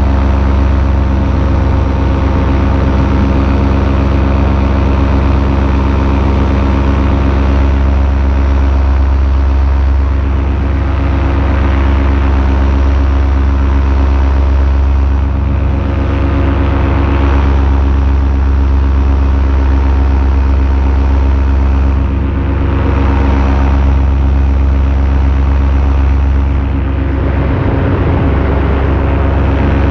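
Paramotor engine and propeller running steadily in flight, with its pitch and level dipping slightly a few times as the throttle or airflow changes.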